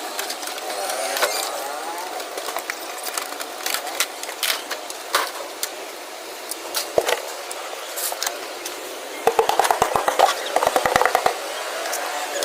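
Scattered clicks and knocks, with a quick burst of rattling strikes about nine seconds in that lasts around two seconds.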